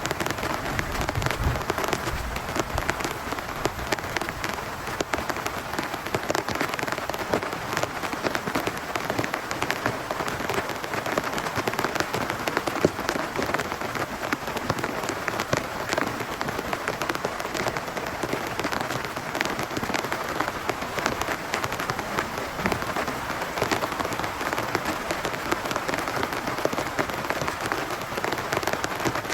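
Heavy rain falling steadily on a big tent, a dense, unbroken patter of drop hits.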